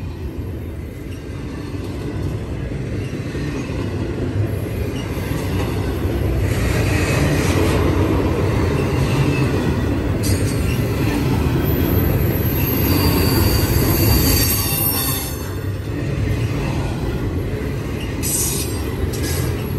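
Double-stack intermodal freight train rolling past, a steady rumble of steel wheels on rail that swells through the middle. A high-pitched wheel squeal comes in around the middle for a few seconds, with a brief shorter one near the end.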